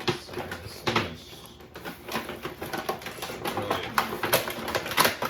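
Toy box packaging being worked open by hand: irregular clicks and crinkling of cardboard, plastic and tape, coming thicker and faster about halfway through.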